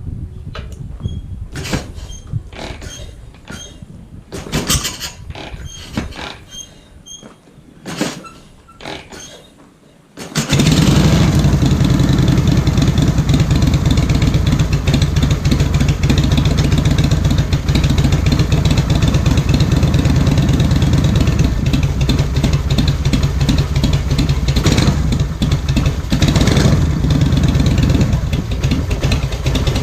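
Scattered light clicks and knocks, then about ten seconds in a Harley-Davidson V-twin starts and runs steadily at idle through its modified muffler, the pipe end cut off and a new pipe welded on.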